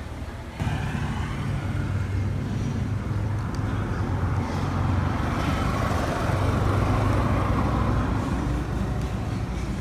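Motor vehicle engine running steadily with street traffic noise, a low even hum that steps up in level about half a second in.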